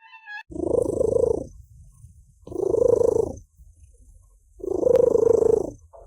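Domestic cat purring loudly in three long swells about two seconds apart, one per breath, with a fainter purr between them.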